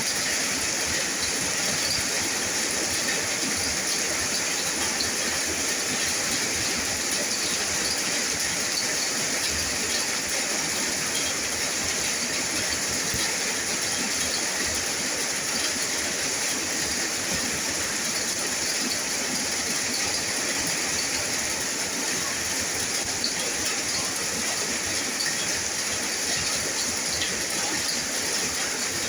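Steady heavy rain, an even hiss with small drops pattering through it.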